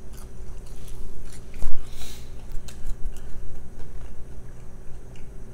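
Chewing and mouth sounds of someone eating french fries: a run of short wet clicks and smacks, with one louder thump about a second and a half in.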